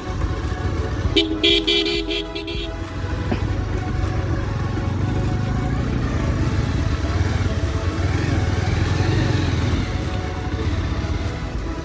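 Motorcycle engine running steadily while riding, and a vehicle horn honks about a second in, lasting about a second and a half.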